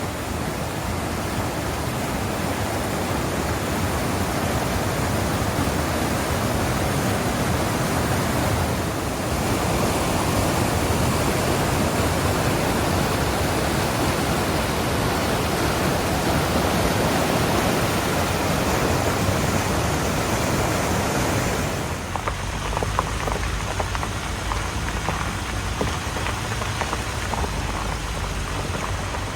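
Waterfall on a river: a steady, loud rush of water pouring over the falls. About 22 seconds in, the sound thins in the middle and gains a deeper low rumble.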